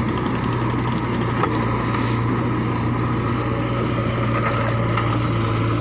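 Diesel tractor engine running at a steady speed, with a brief knock about a second and a half in.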